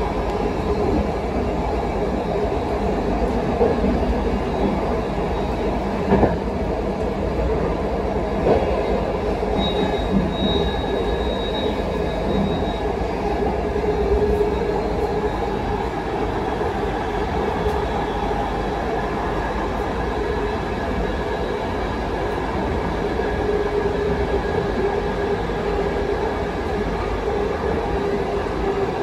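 Passenger train running along the track: a steady rumble with a few scattered knocks from the wheels. About ten seconds in, a thin high wheel squeal sounds for about three seconds.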